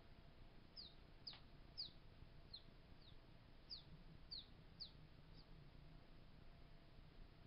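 Faint bird chirping: about nine short, high chirps, each dropping quickly in pitch, over a few seconds, against near silence.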